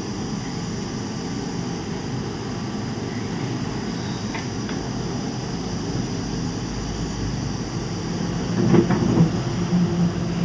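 Steady low background hum and rumble, with a brief louder sound near the end.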